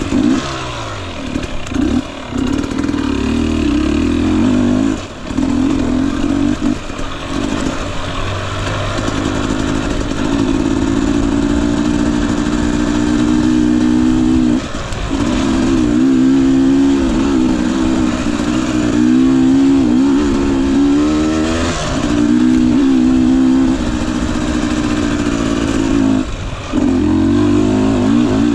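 Husqvarna TE250i two-stroke dirt bike engine running under constantly changing throttle, its pitch rising and falling as the rider works through the trail. The sound drops away briefly several times as the throttle is closed, and the pitch swings up and down most in the middle stretch.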